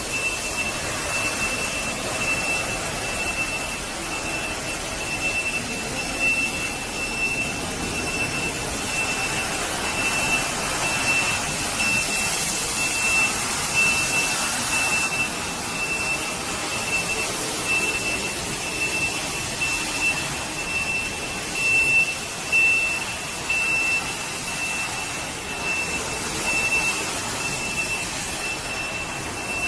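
H860B ride-on industrial floor-cleaning machine running, its motors and brushes giving a steady mechanical whoosh, with a high warning beep repeating about once a second.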